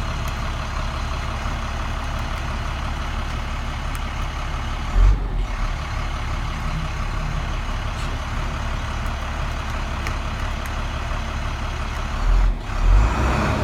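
International DT466 inline-six diesel engine of a 2007 International 4300 truck idling steadily, with brief low thumps about five seconds in and twice near the end.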